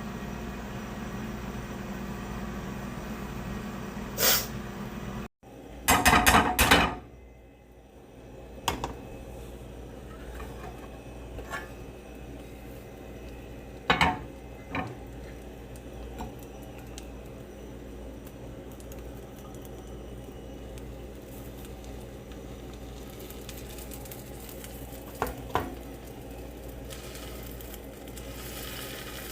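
Kitchen clatter: dishes and utensils clinking and knocking now and then over a steady background hum, with the loudest run of clatter a few seconds in.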